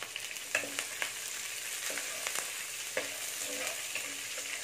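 Green chillies, ginger, garlic and whole spices sizzling in hot coconut oil in a nonstick kadai, with a steady high hiss. A steel spoon stirs them, scraping and clicking against the pan about once a second.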